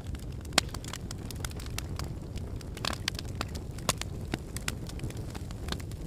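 Logs burning in a fireplace: a steady low rumble of the flames with frequent sharp crackles and pops. The loudest pop comes about half a second in, and a brief cluster of crackling comes about three seconds in.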